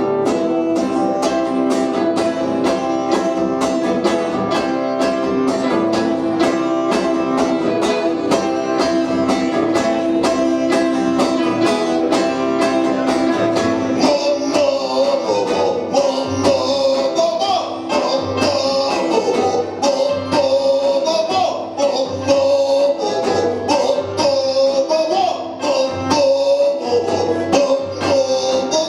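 A band playing a song live: acoustic guitar strummed in a steady, driving beat. About halfway through, a wavering lead melody comes in over the strumming.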